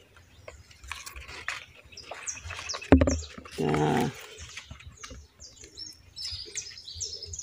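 Small birds chirping in short, high, falling notes, busiest near the end, with a single sharp knock about three seconds in.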